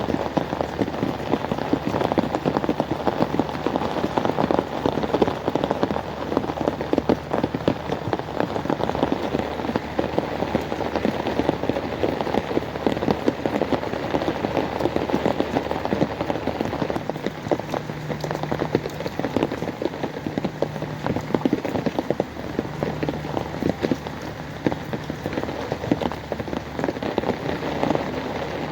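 Heavy rain falling steadily, a dense continuous patter of drops. A faint low hum comes and goes in the second half.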